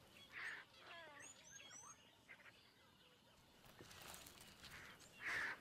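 Faint, quiet bush ambience with a few scattered bird calls, a cluster of short chirps and gliding calls about a second in.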